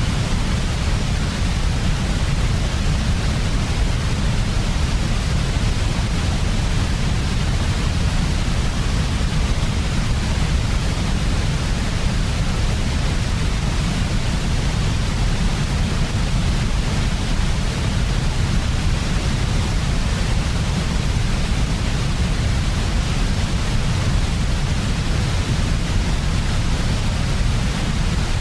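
Synthetic white noise: an even, unchanging hiss with a heavier low rumble beneath it.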